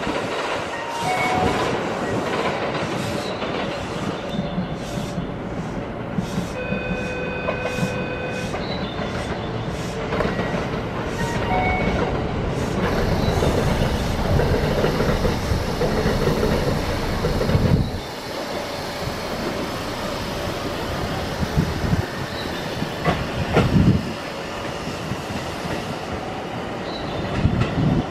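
Aonami Line 1000 series electric train pulling out of the platform and running past, its rumble building and peaking about two-thirds of the way in, with sharp knocks as the wheels cross the rail joints. A steady two-second tone sounds about a quarter of the way in, before the train gets going.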